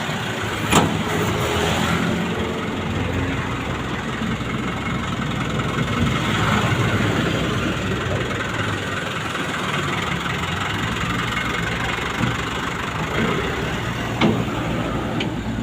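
Truck engine running steadily at low revs, with a sharp click about a second in and a couple of short knocks near the end.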